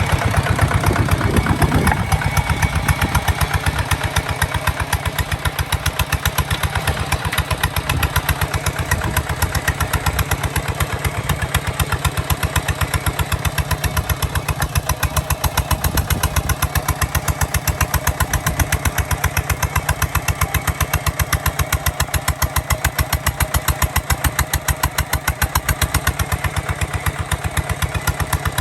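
Kubota ZT 155 DI single-cylinder diesel engine running with a rapid, even beat of firing strokes. It is a little louder in the first couple of seconds, then settles to a steady run.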